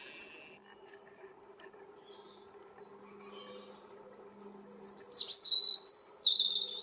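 European robin singing: a short high phrase at the start, then after a pause a longer run of varied, high, sliding notes.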